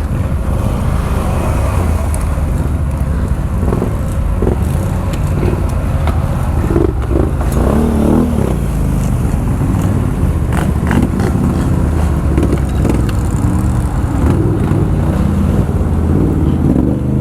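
ATV engine running steadily as the quad is ridden, its pitch shifting briefly about halfway through, with a few sharp knocks a little later.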